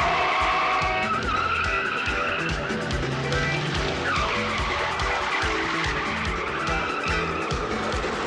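Car tyres squealing in long skids over a running engine, as a car is thrown through hard turns, with a film music score underneath.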